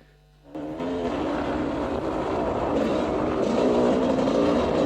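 Off-road motorbike engine running and revving, coming in loud about half a second in after a short quiet gap.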